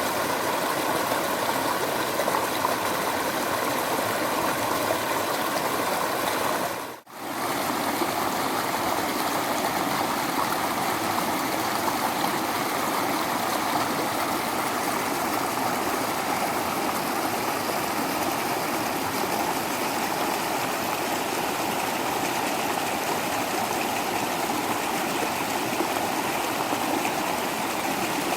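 Waterfall water rushing in a steady, even noise. It drops out for a moment and comes straight back about seven seconds in.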